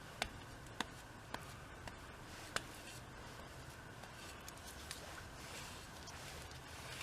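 A few light, sharp clicks or taps, about five in the first three seconds and a weaker one later, over faint steady background noise.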